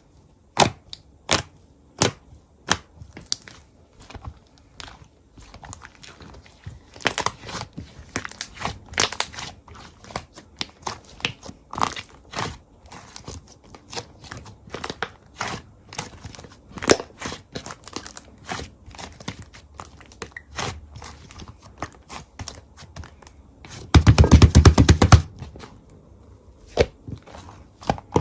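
Slime being squished and pressed by hand, giving sharp clicking pops, slowly spaced at first and then coming thick and fast. About 24 s in there is a loud burst of rapid crackling lasting about a second.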